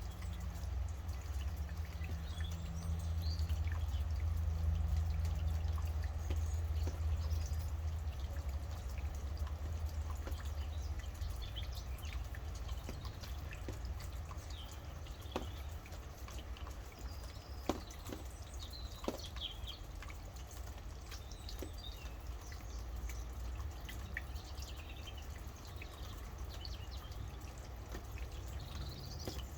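Steady rain falling with drops dripping; three sharp drip clicks stand out around the middle. Birds chirp on and off, over a low rumble.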